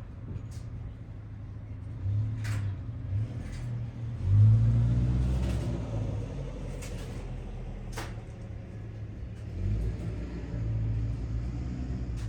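A motor vehicle's engine running with a low rumble that swells several times, loudest about four and a half seconds in, with a few sharp clicks over it.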